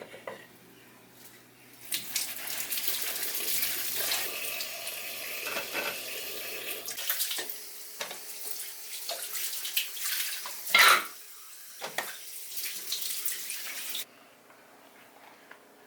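Water tap running into a sink, with a few knocks of things handled under the stream, the loudest about eleven seconds in; the water cuts off suddenly near the end.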